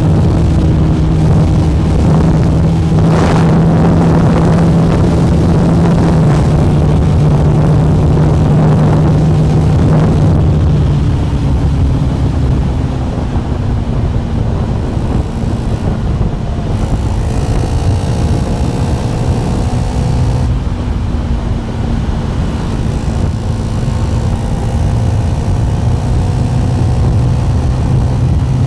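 KTM 390 Duke Gen3's single-cylinder engine running under way, pulling hard for about ten seconds and then easing to a steadier, slightly quieter cruise.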